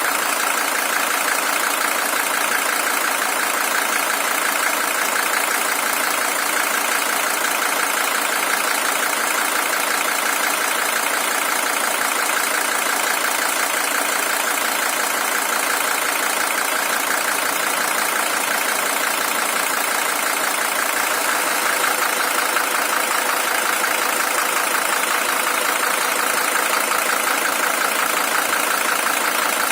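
Mercedes-Benz OM617 five-cylinder diesel engine in a W123 300TD, original and high-mileage at 620,000 km, idling steadily.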